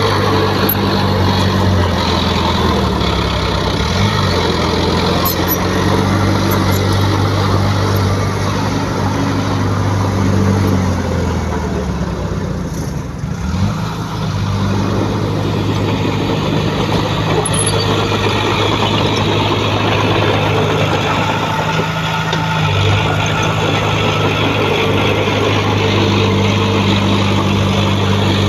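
Heavy diesel engine of earthmoving equipment running under load. Its note dips briefly twice and steps up again about two-thirds of the way through.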